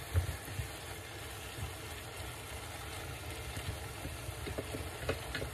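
Minced beef and onions frying in a pot, a steady sizzle with a low rumble under it. A wooden spoon knocks against the pot about a quarter second in, and a few light clicks of stirring follow near the end.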